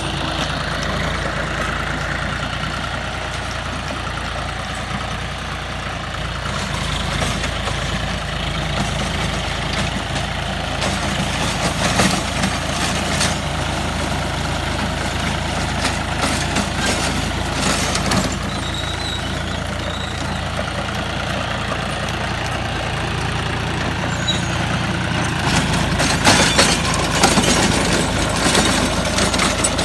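Tractor diesel engine running steadily with a rotary tiller working, with scattered sharp knocks and clatter that come more often and louder near the end.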